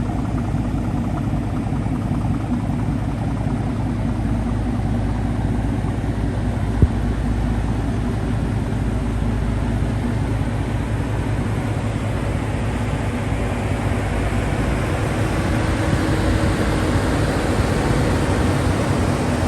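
A vehicle engine idling steadily, a constant low drone with one sharp click about seven seconds in.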